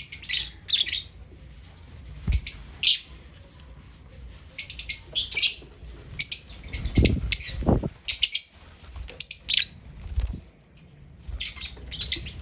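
Lovebirds chirping in short clusters of high, rapid chirps, with a few dull thumps in between.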